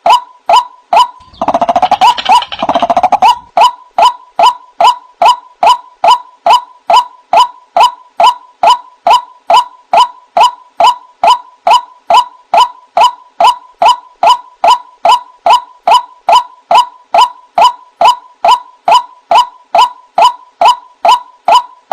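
White-breasted waterhen calling: a short 'wak' note repeated steadily about two and a half times a second. A louder, rougher stretch of calling comes over it about one and a half to three and a half seconds in.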